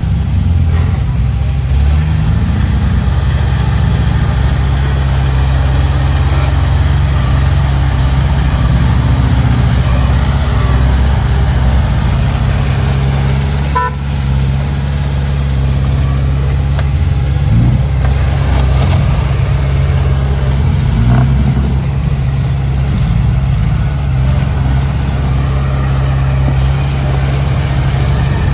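Heavy diesel engine of earthmoving equipment running steadily under load, a low drone that rises and falls a little. A short high tone sounds about halfway through.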